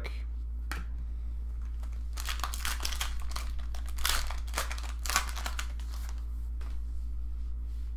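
Foil trading-card pack wrapper crinkling and tearing as it is opened, in a burst of rustles from about two to five and a half seconds in, over a steady low hum.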